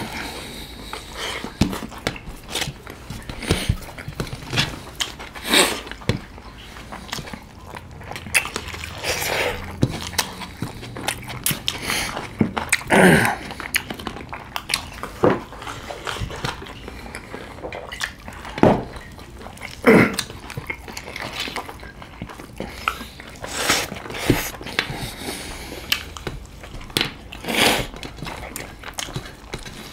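Two people eating chicken biryani with their hands, close to the microphone: chewing and lip-smacking with many small wet clicks, and a few louder short sounds partway through.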